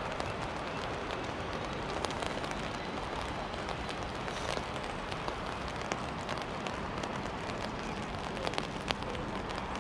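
Steady rain with many scattered sharp drop ticks, the sound of rain falling on an umbrella held overhead.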